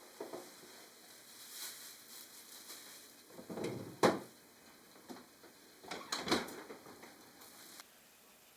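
A few scattered knocks and short clatters of objects being handled, the sharpest about four seconds in and another cluster around six seconds.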